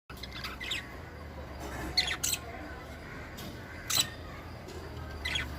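A pet bird giving a handful of short, sharp squawks and chirps, spaced irregularly.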